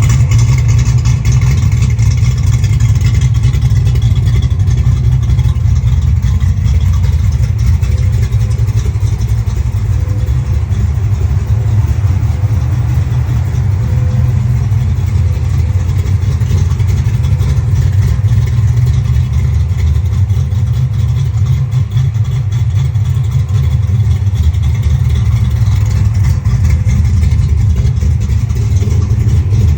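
A 357 small-block Chevy V8 with ported double-hump heads and a solid flat-tappet cam runs steadily at an even speed, exhaust note through Spintech Super Stock 1000 mufflers.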